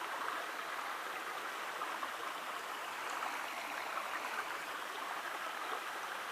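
Shallow creek flowing: a steady, even rush of running water.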